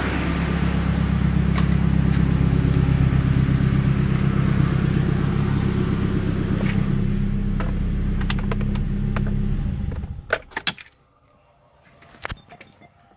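Nissan 240SX engine idling steadily, then shut off about ten seconds in. A few sharp clicks and keys jingling follow.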